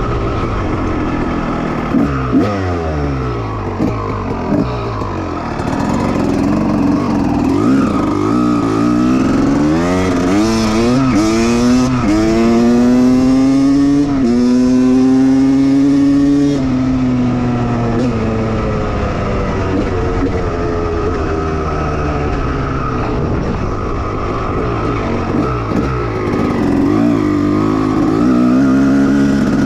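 1989 Honda CR250R two-stroke single-cylinder motocross engine under riding load: the revs fall early on, then climb in pitch in several rising steps as it pulls up through the gears, hold high for a couple of seconds past the middle, and drop away as the throttle closes. The revs climb again near the end.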